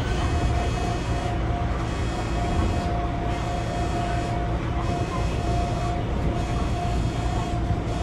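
Gakunan Railway electric train running, heard from inside the car: a continuous low rumble with a steady whine over it.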